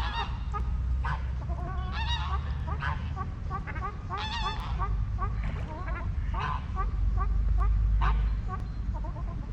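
Waterfowl on a lake, geese and ducks, calling: many short honks from several birds, overlapping and repeating, over a steady low rumble.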